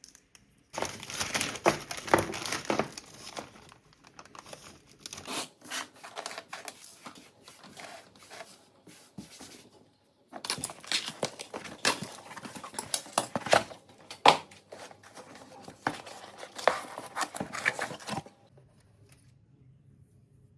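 Thin crinkly wrapping being handled and torn, with sharp crackles. It comes in two spells, the first about a second in and fading after a few seconds, the second longer, and it stops a couple of seconds before the end.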